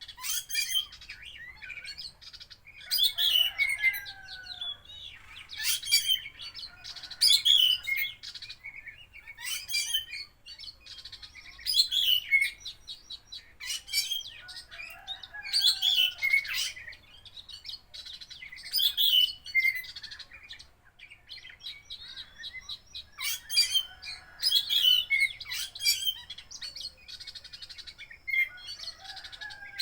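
Oriental magpie-robin (kacer) in full song: loud, varied phrases of whistles, trills and sweeping notes, delivered in bursts every second or two. The song is packed with mimicked snippets of other birds' calls, the 'isian' that a contest bird is prized for.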